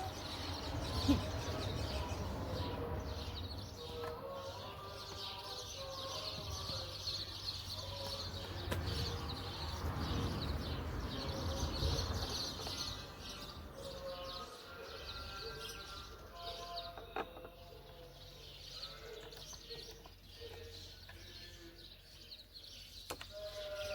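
Birds chirping and calling outdoors, with short repeated calls throughout and a low rumble in the first half.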